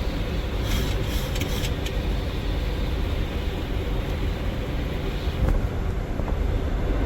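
Steady flight-deck noise of a Boeing 737 on approach: a low rumble of airflow and engines, with rain hitting the windshield.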